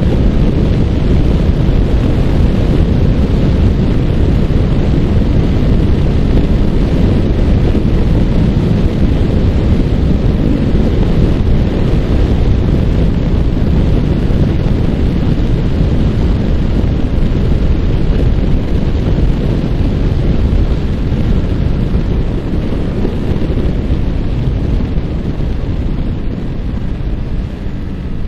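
Loud wind rush on the microphone of a Yamaha R15 motorcycle ridden at speed, with its single-cylinder engine running underneath. The level eases off over the last few seconds.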